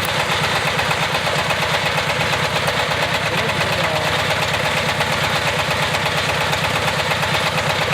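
GY-200-1A engineering drilling rig's engine running steadily with a fast, even pulse.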